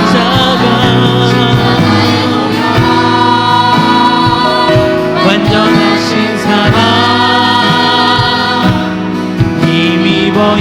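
A church praise team singing a gospel worship song with band accompaniment: several voices on held, wavering notes over steady bass and drums.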